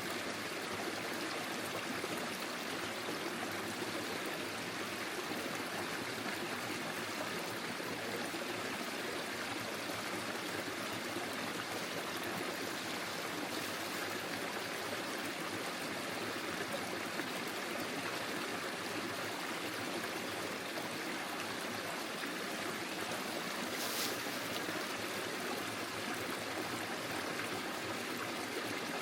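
Forest stream flowing steadily, an even, unbroken rush of running water.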